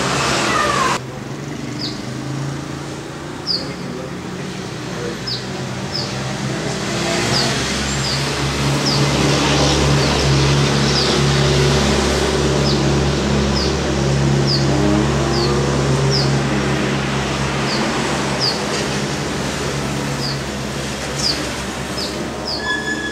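A bird giving short, high, down-slurred chirps about once a second, over a steady hum of city traffic that swells and then fades in the middle.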